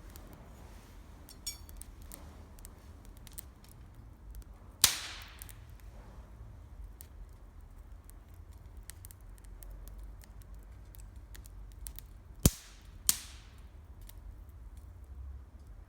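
Wood campfire crackling with scattered small ticks. It gives one loud, sharp pop about five seconds in and two more in quick succession near the end, each ringing on briefly.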